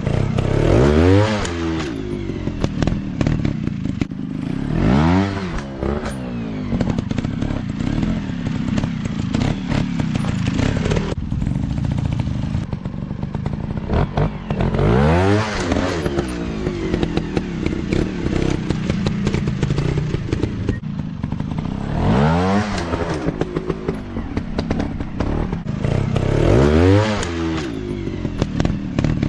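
150 cc motocross bike engine running, with the throttle opened about five times so the pitch climbs sharply and falls back each time. Some clattering runs underneath.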